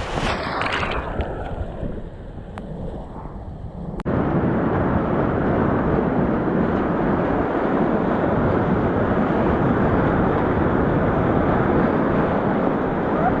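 Rushing whitewater of a river rapid, a steady hiss that jumps suddenly louder about four seconds in and then holds steady.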